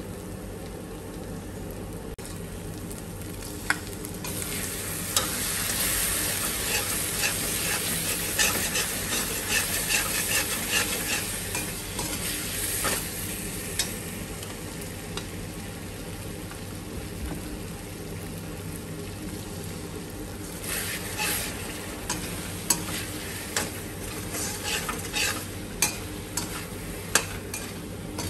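Spice masala frying and sizzling in a metal kadhai while a slotted metal spoon stirs and scrapes through it. The stirring comes in two louder spells, with a few sharp clicks of the spoon against the pan.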